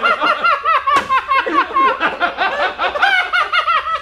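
Several people laughing hard together, in rapid bursts throughout, with a single sharp click about a second in.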